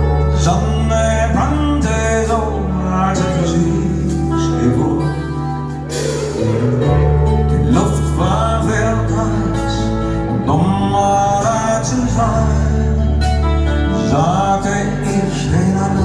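Live band playing the slow opening of a rock ballad: a melody line over sustained low bass notes, with no words.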